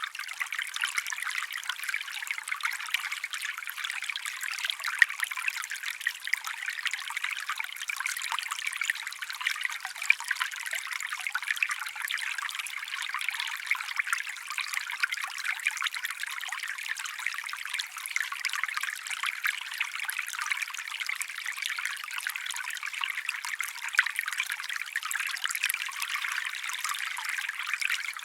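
A small stream trickling steadily: continuous light splashing full of tiny crackly spatters, with no deep rumble.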